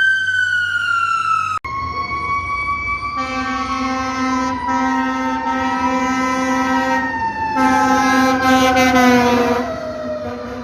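Fire truck sirens wailing, their pitch sliding slowly downward. There is an abrupt cut about a second and a half in to another siren that winds gradually lower. A steady lower tone sounds over it in long stretches through the middle.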